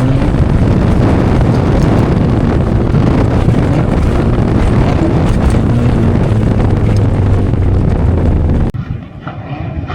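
Rally car engine running hard under load, its pitch rising and falling as the revs change, with wind on the microphone. The sound drops away suddenly near the end.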